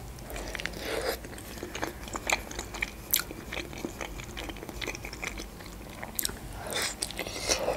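Biting into and chewing a Georgian khinkali dumpling, with many short mouth clicks scattered throughout and a cluster of louder ones near the end.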